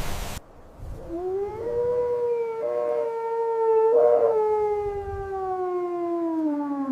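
Wind noise cuts off abruptly just after the start. Then a single long canine howl rises in pitch, holds, and slowly falls away over about six seconds, with two brief rough bursts partway through.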